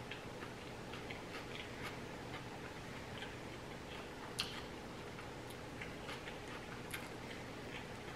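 Close-up mouth sounds of someone eating: soft, scattered wet clicks and smacks of chewing, with a sharper click about four seconds in, over a faint steady hum.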